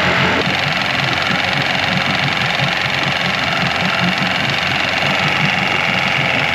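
A loud outboard motor running at idle, with a steady low pulsing.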